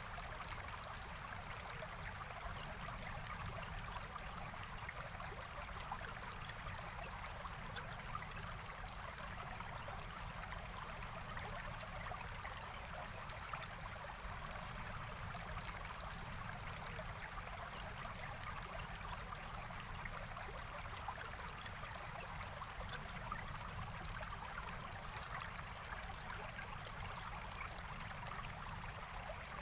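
Forest stream running steadily, an even rush of water with small scattered ticks.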